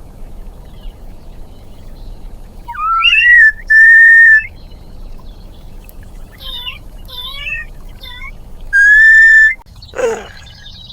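High whistled tones: a rising glide into a long steady note, warbling chirps, then a second long steady note, and a quick falling sweep near the end.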